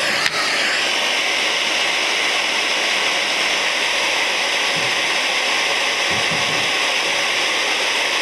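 Vacuum cleaner running steadily, with one sharp knock just after the start.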